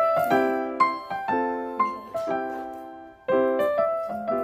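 Background music: piano-like keyboard notes played in a gentle pattern of decaying chords, with a short pause about three seconds in.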